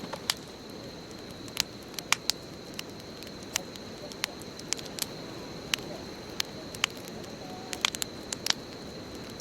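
Bonfire burning: irregular sharp pops and crackles, a few of them loud, over a low steady rush of flame.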